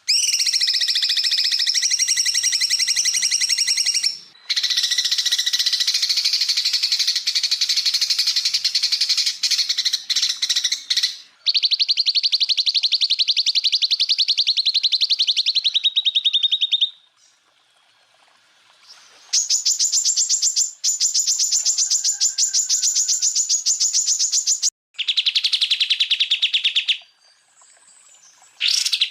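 Recorded song of a cucak ijo (green leafbird): fast rattling trills of rapidly repeated notes. Each run holds a steady pitch for several seconds, then stops abruptly before the next run, some runs higher-pitched and some lower.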